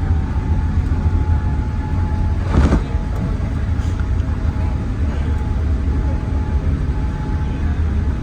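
Cabin noise of a Boeing 787-8 airliner heard from a window seat during landing: a steady low rumble, with one brief louder rush or thump about two and a half seconds in.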